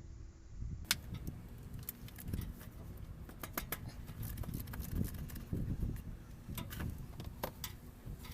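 Irregular metallic clicks and clinks of a socket wrench working the 15 mm steel oil drain plug loose, over a low rumble of handling.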